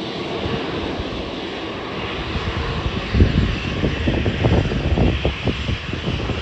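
Embraer 190 jet airliner with twin GE CF34 turbofans: a steady engine hiss, joined by a low crackling rumble about three seconds in.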